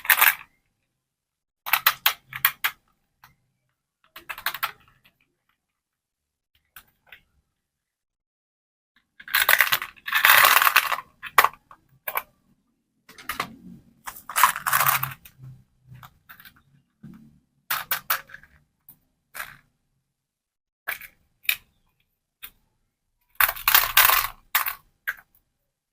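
Candy packaging being handled and opened by hand: scattered clicks and taps of small plastic pieces, with bursts of crinkling and tearing wrapper about ten seconds in, again around fifteen seconds, and near the end.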